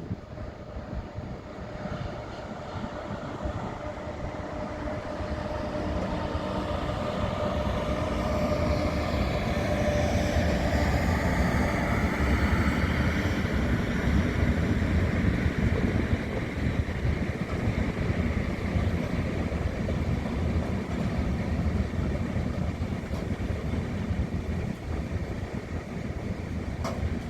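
A train running through the station on the tracks, growing louder over the first ten seconds or so and staying loud, with a whine that shifts in pitch.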